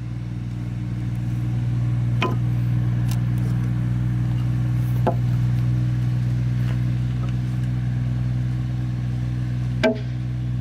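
A motor running steadily at constant speed with an even hum, and a few sharp knocks about two, five and ten seconds in.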